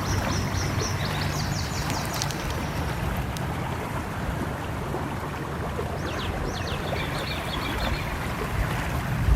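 Stream flowing steadily with a low rumble, while a small bird gives quick runs of high chirps at the start and again about six seconds in.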